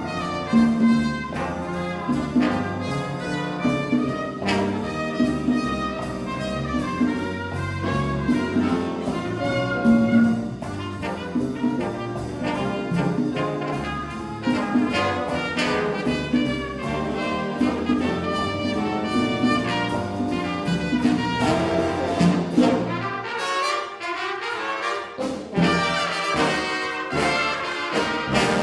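Big band playing jazz, trumpets and trombones over a rhythm section with a steady beat; about 23 seconds in, the bass drops out for a couple of seconds before the full band comes back in.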